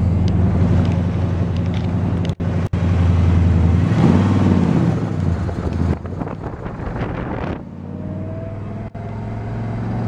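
1971 Chevelle SS 454 big-block V8 running under load on the road, heard from inside the cabin. The engine note bends in pitch about four seconds in, then falls off twice, near six and near seven and a half seconds, as the 4-speed manual is shifted.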